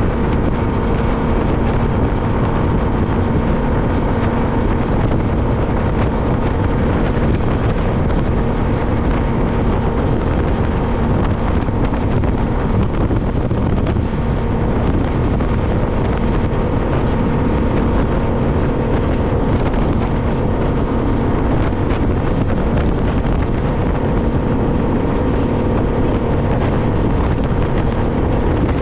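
Sportsman Masters 227 bay boat's outboard motor running steadily at speed, a constant engine tone under heavy wind buffeting on the microphone.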